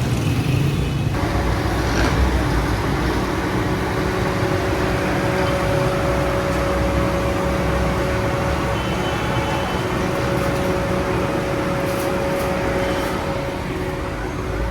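Road traffic: motor vehicle engines running close by, with a steady humming tone through most of it.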